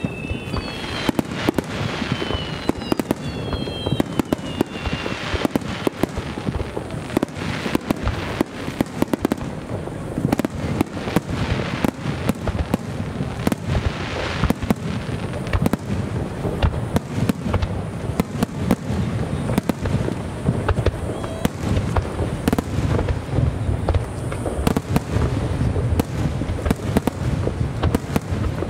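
Large Japanese fireworks display fired as a rapid, continuous barrage: dense overlapping bangs and crackling shell bursts with a rolling low rumble. Whistling tones glide in pitch during the first few seconds.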